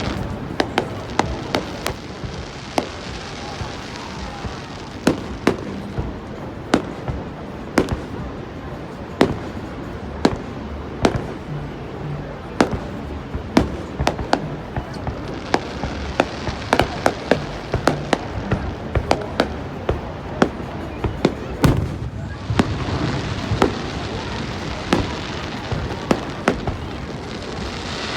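Fireworks going off in a long series of sharp bangs and crackles, sometimes several a second, over a steady background hiss.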